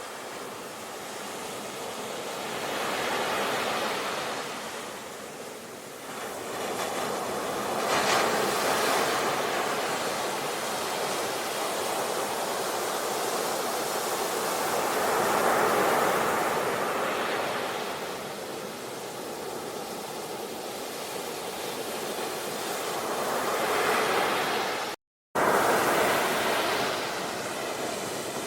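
Sea waves breaking and washing up the shore, the surf swelling and ebbing every few seconds. About 25 seconds in the sound cuts out completely for a split second, then comes back at full strength.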